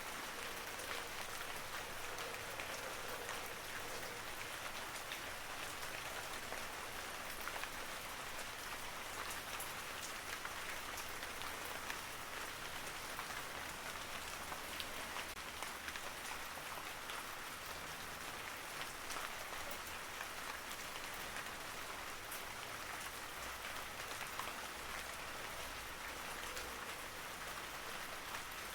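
Steady rainfall, a continuous hiss of rain with many individual drops ticking on surfaces.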